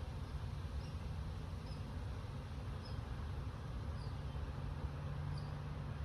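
Wind rumbling low and steady, with short faint high chirps repeating about once a second.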